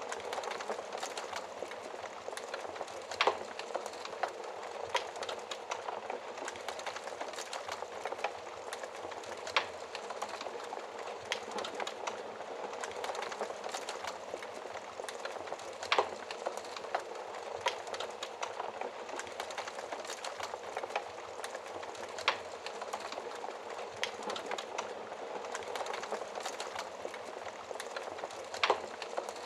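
Wood fire crackling over a soft steady hiss, with many small snaps and a sharper pop about every six seconds.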